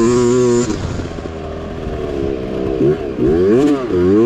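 Mini bike engine under race throttle: held at high revs, then backed off for about two seconds, then revved up and down several times before holding high revs again.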